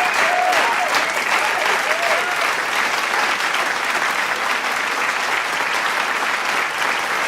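Big crowd clapping and cheering in steady, dense applause, with a few shouts and whoops over it in the first couple of seconds.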